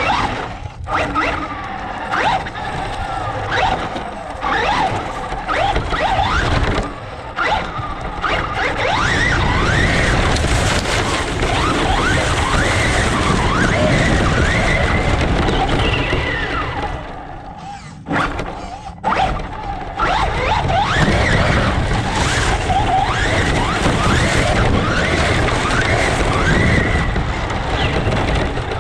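Radio-controlled truck's motor whining as it revs up and down again and again, in many short rising and falling sweeps. It eases off briefly about two-thirds of the way through.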